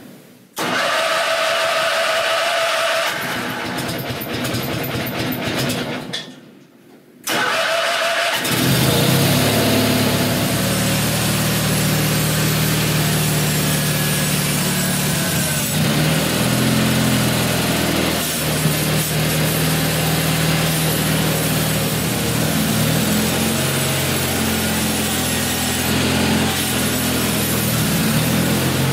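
Small tractor engine running under load while plowing snow, its pitch rising and falling as it works. It comes in about eight seconds in, after a few seconds of other, unclear sound and a short quiet gap.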